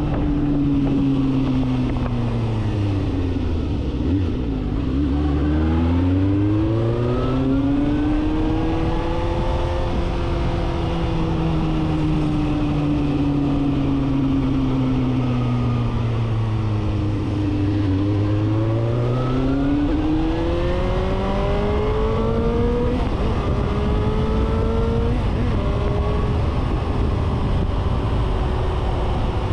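Suzuki GSR750's inline-four engine through a full 4-into-1 aftermarket exhaust, under way: revs drop, climb and hold, ease off slowly, then climb again in steps as it shifts up. Wind rushes over the microphone throughout.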